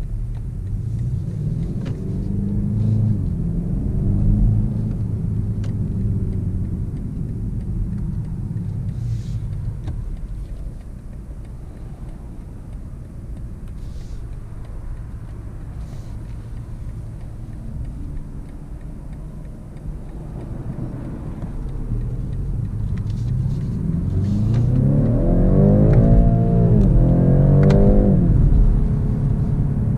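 BMW 530e plug-in hybrid's turbocharged 2.0-litre four-cylinder petrol engine under a quick burst of hard acceleration, heard from inside the cabin: the revs climb from about twenty seconds in, and the pitch drops back at each upshift of the automatic gearbox and climbs again. Earlier the engine pulls lightly at low speed, then goes quieter, leaving mainly road and tyre noise.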